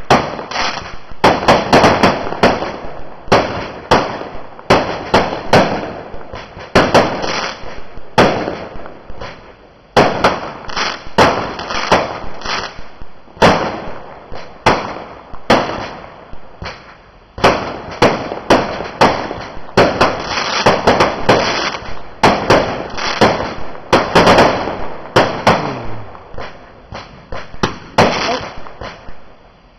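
Fireworks going off in quick succession: loud sharp bangs, often several a second, with crackling and fizzing between them.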